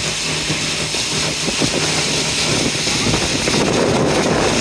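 Tour boat's engine running with a steady low hum, under an even rush of wind and water noise.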